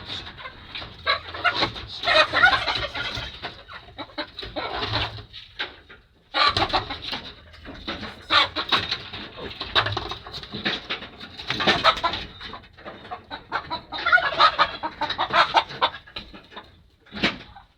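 Hens clucking and calling in irregular loud bursts as they are driven out of a room, with a brief lull about six seconds in.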